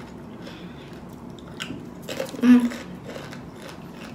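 Crunching and chewing of a tortilla chip, with small crisp clicks. A brief voiced hum is heard about halfway through.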